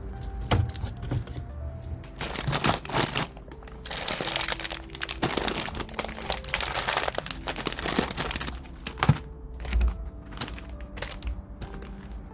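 Plastic packaging crinkling and rustling in repeated bursts, with a few sharp clicks, over soft background music.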